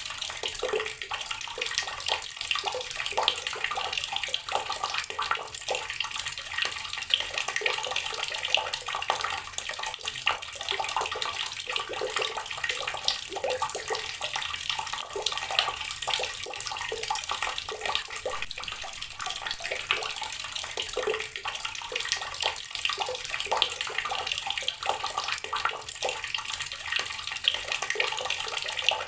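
Water running steadily from a tap and splashing onto rocks, a continuous crackling splatter with no change in flow.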